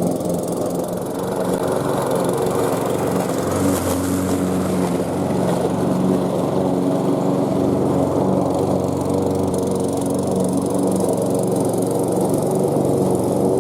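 Briggs & Stratton petrol engine of a Ferrex 46 cm self-propelled lawn mower running steadily.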